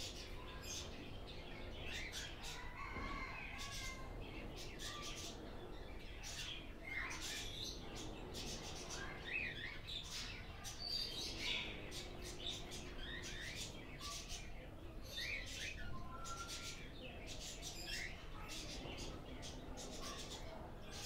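Small birds chirping, many short quick notes, some sliding up or down, keeping on steadily.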